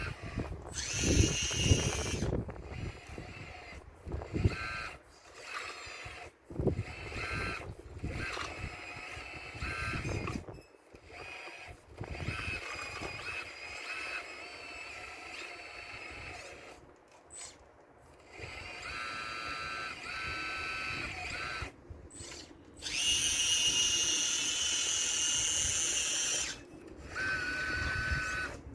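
Electric motors of a radio-controlled model excavator whining in repeated stops and starts as the machine works, with a longer run near the end. Low knocks and rumbling of stones come in the first couple of seconds.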